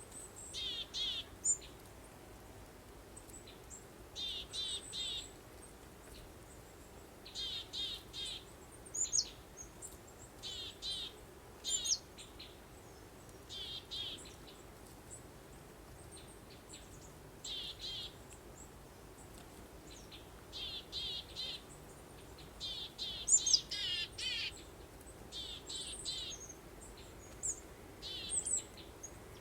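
Songbirds chirping in short, quick trilled phrases, repeated every second or two, with a few higher single chirps between. Underneath is a faint, steady background noise.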